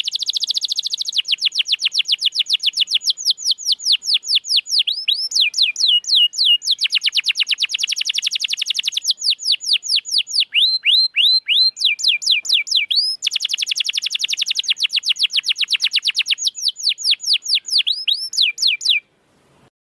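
Domestic canary singing: long runs of fast, rapidly repeated chirping notes, each run switching to a new note type, slower sweeping whistles in between. The song cuts off abruptly near the end.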